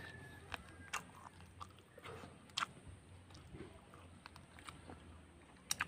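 Close-miked chewing and mouth noises of someone eating rice and fish by hand, with scattered sharp clicks of lips and tongue; a louder double click comes near the end.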